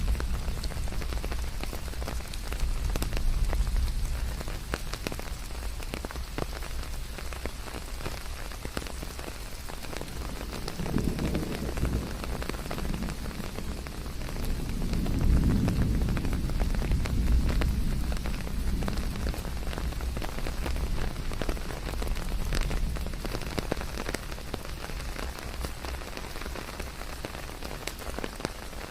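Steady rain pattering on leaves, with many separate drops ticking through it. A low rumble swells up twice, about eleven and fifteen seconds in.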